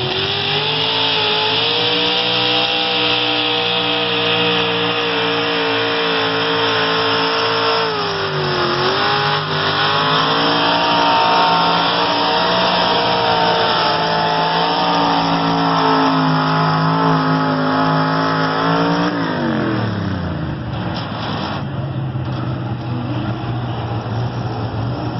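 Pulling truck's engine running flat out at high revs under heavy load, dipping briefly about a third of the way through. Near the end the revs fall away as the pull ends, and it settles to a lower steady run.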